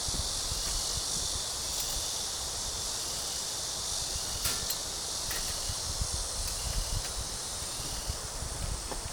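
Steady, high-pitched chorus of summer insects, with a low rumble of wind on the microphone underneath and a couple of faint clicks in the middle.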